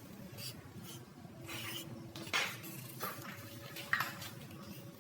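Two short, light knocks about a second and a half apart, with faint rubbing and handling noise over a low steady hum.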